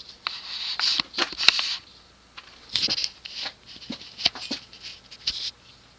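Irregular rustling bursts and a few light clicks: handling noise.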